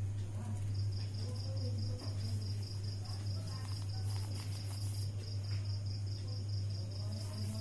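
A cricket chirping in an even fast pulse, about five chirps a second, over a steady low electrical hum, with faint paper rustling from folding.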